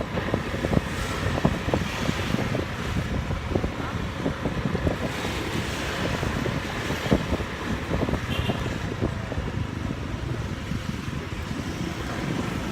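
Wind buffeting the microphone on a moving motorbike, a steady low rumble with irregular gusts, with the bike's engine and road traffic underneath.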